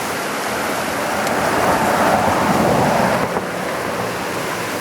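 Fast, swollen floodwater of a creek rushing past, a steady rush that swells louder for a couple of seconds in the middle.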